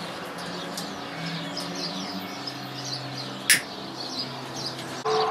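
Small birds chirping repeatedly with short high calls, heard through the open slots of a bell tower. One sharp click about three and a half seconds in.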